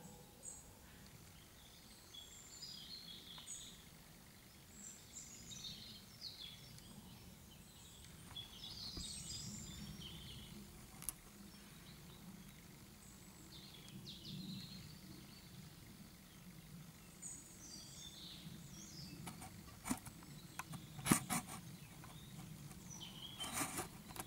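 Faint birdsong, scattered short chirps and brief phrases, over a steady low rumble. Several sharp clicks and knocks come near the end as the camera is handled.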